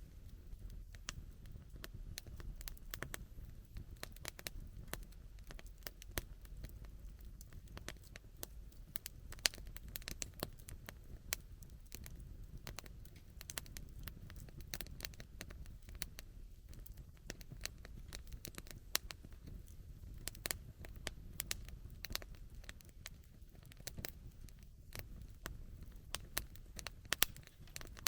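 Wood campfire crackling, with frequent, irregular sharp pops and snaps over a low steady background.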